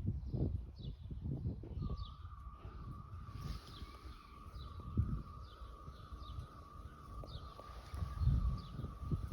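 Birds calling in a wooded outdoor setting, with short falling chirps repeated two or three times a second. A steady, slightly wavering high tone joins about two seconds in, and irregular low rumbles run underneath.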